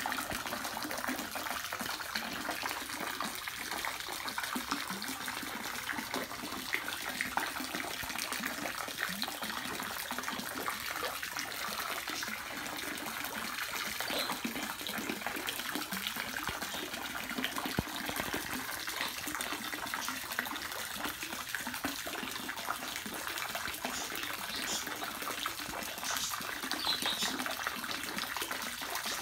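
Running water: a steady, even rush with a few faint ticks.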